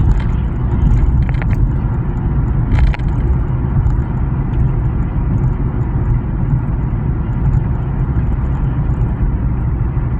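Steady low rumble of a car driving, with road and engine noise heard from inside the cabin, and a few brief clicks about one and a half and three seconds in.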